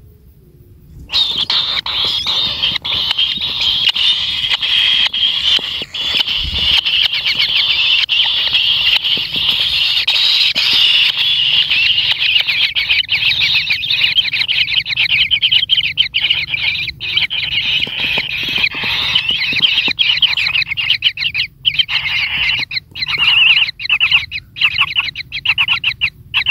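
Kingfisher nestlings giving a continuous, rapid, buzzing chatter of begging calls. It starts suddenly about a second in and breaks into short bursts near the end.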